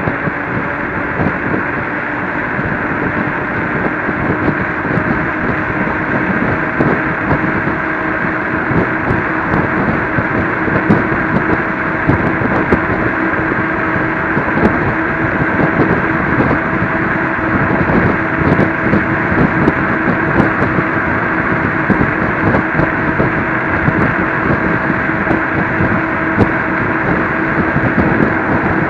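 Electric scooter riding along: wind rushing over the microphone and road noise, with a steady motor whine and scattered small clicks and rattles.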